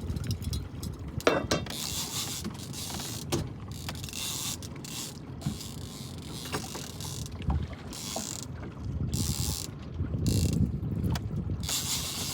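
Fishing reel wound in repeated spurts with short pauses, its gears and ratchet clicking, while a hooked fish is pumped in by lifting the rod and winding on the drop.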